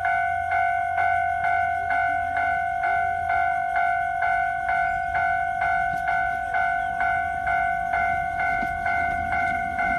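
Railway level-crossing warning bell ringing steadily at about three strokes a second, signalling an approaching train; a faint low train rumble comes up near the end.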